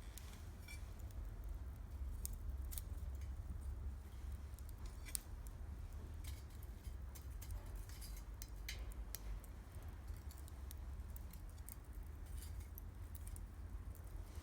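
Wood campfire crackling, with irregular sharp pops and ticks over a steady low rumble.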